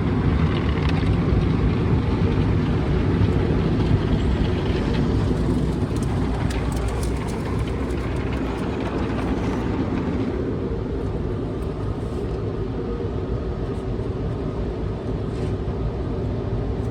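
Tunnel car wash machinery heard from inside the car's cabin: a steady low rumble with a hiss of spray and brushes on the car. The hiss eases about ten seconds in.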